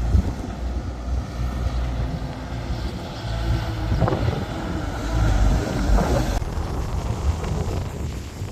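Wind buffeting the microphone in uneven low rumbles, over a steady hiss of outdoor noise.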